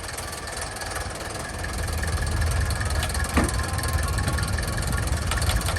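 An engine running with a steady low rumble that grows louder about two seconds in, with a brief sharp sound a little after the three-second mark.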